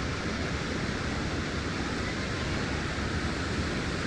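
Steady, unbroken rushing of a large waterfall.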